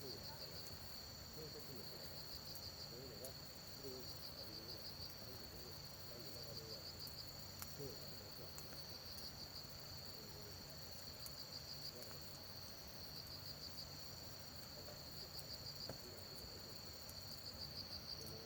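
Insects trilling faintly in a steady high chirp that pulses in short runs about once a second, with a few faint crackling pops from a campfire.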